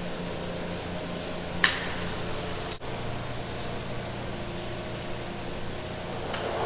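Three-phase electric hoist running off a single-to-three-phase converter, a steady electric hum, with a single sharp click about a second and a half in.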